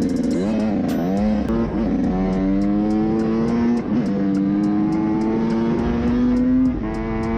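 Motorcycle engine revving up and down, then pulling under load with its pitch climbing slowly and dropping about four seconds in and again near the end as it shifts up a gear. A faint, even ticking runs over it, about three ticks a second.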